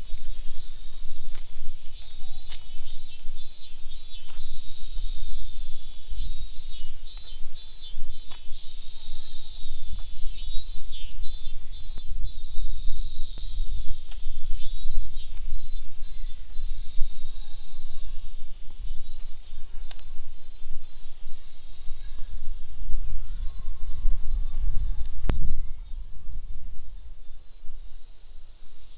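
Outdoor insect chorus: a steady high buzzing with fast pulsing trills, over a low rumble.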